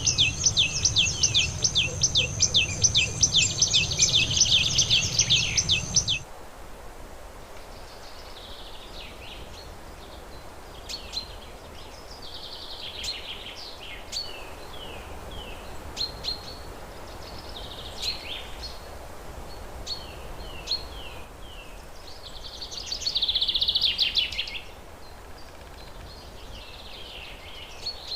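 Wild birds singing. For about the first six seconds one bird sings a loud, fast run of rapidly repeated high notes over a low rumble, and then it cuts off abruptly. After that come scattered shorter chirps and brief trills, with one louder trill about three-quarters of the way through.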